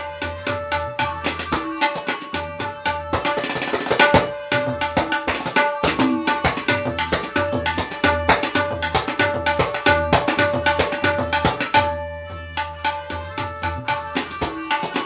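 Tabla played solo in fast, dense strokes on the dayan and bayan, the pitched ringing of the drums sounding through, with a brief thinning of the strokes about twelve seconds in.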